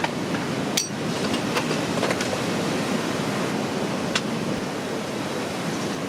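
Steady rush of strong seaside wind and surf, with a few sharp taps or knocks cutting through it.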